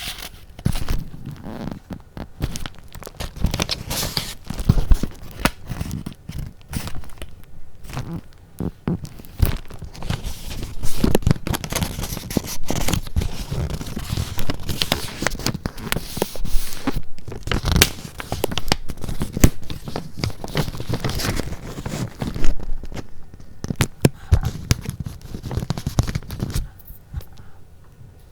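Paper being handled close to the microphone: irregular rustling and crinkling of sheets with sharp crackles, dying down near the end.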